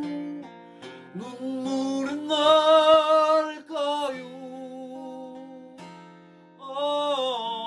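A solo voice sings a slow Korean ballad to acoustic guitar. Long held notes waver with vibrato about two seconds in and again near the end.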